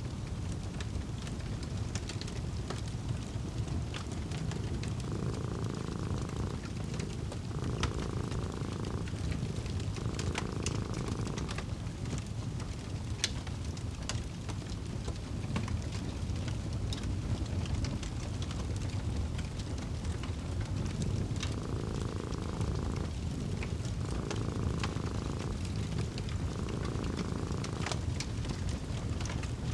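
Wood fire crackling, with scattered sharp pops over a steady low rumble. A cat purrs in two spells of three long breaths each, one spell early and one late.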